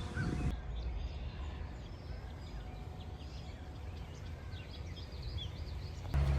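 Small birds chirping faintly and irregularly over a steady low rumble of outdoor noise. Near the end the sound cuts to a steady low hum.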